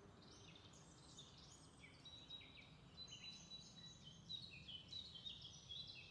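Faint birdsong: many short, high chirps and twitters, starting about two seconds in and coming more often toward the end, over near silence.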